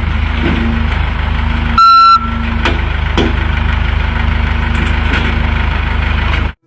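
Heavy vehicle's engine idling steadily, with one loud reversing-alarm beep about two seconds in; the sound cuts off abruptly near the end.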